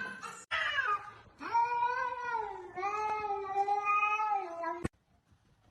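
A domestic cat yowling: a short falling cry, then two long, drawn-out wavering yowls, cut off suddenly near the end.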